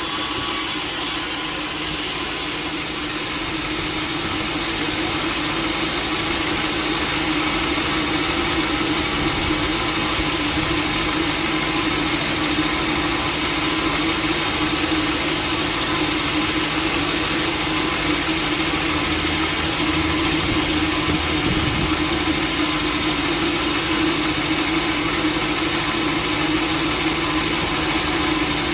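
Sawmill engine running steadily while the saw runs free. A wood cut ends about a second in.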